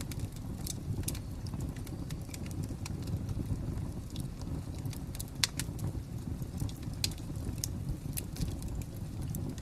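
Wood fire crackling: scattered sharp pops and snaps over a steady low rumble, with a louder pop about five seconds in.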